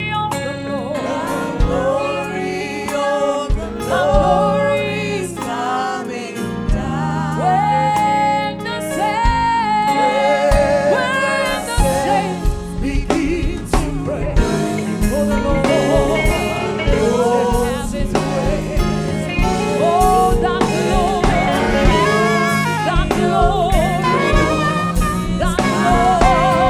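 Gospel music: singing with vibrato over keyboard, bass and drums with a steady beat.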